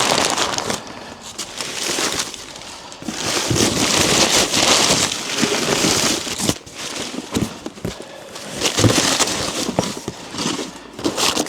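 Newspaper packing crumpling and rustling as it is pulled out of a parcel by hand, in uneven bursts, with a few light knocks.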